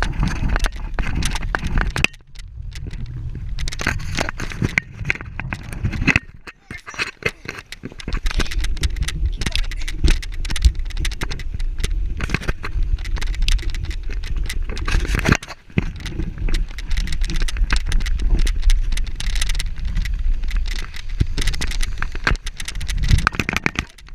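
Wind buffeting the microphone on a moving bicycle ride, with rattling and crackling from the bike. The rumble drops away briefly three times: about two seconds in, around six to eight seconds, and near sixteen seconds.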